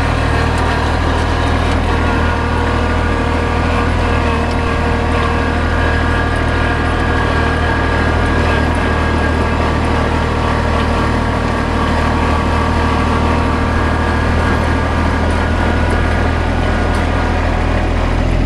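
Kubota compact tractor's diesel engine running at a steady speed, heard from the driver's seat while the tractor drives.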